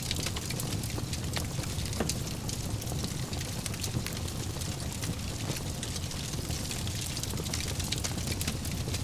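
Wood fire burning in a fireplace: a steady low rumble and hiss of the flames with frequent small crackles and pops throughout.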